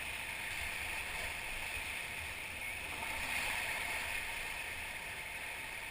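Rushing river whitewater around a raft, a steady rush that swells slightly about three seconds in.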